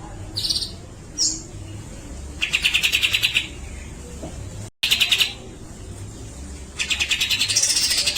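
Grey-cheeked bulbul (cucak jenggot) calling: three harsh, rapidly pulsed rasping bursts, the besetan chatter, the first about a second long, the second about half a second and the third about a second and a half. Short clear whistled notes come between them, and a whistle rises and falls over the last burst. The sound cuts out for an instant just before the second burst.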